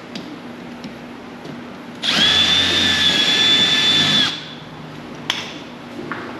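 Handheld power drill running at steady speed for about two seconds, a high, even whine that starts and stops abruptly, followed by a single sharp click.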